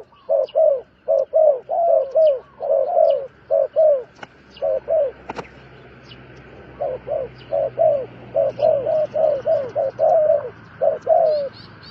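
A bird calling: a fast series of short, downward-sliding hooting notes, about four a second, in two runs with a pause around the middle. Faint high chirps sound above them.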